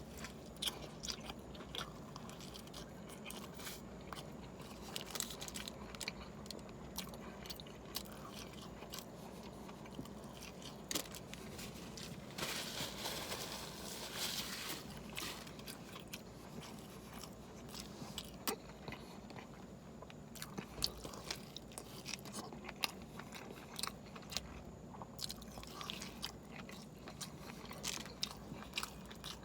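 A person eating a large cheeseburger fast, close to the microphone: chewing and biting with irregular wet mouth clicks. About twelve seconds in there is a louder stretch of noise lasting a couple of seconds.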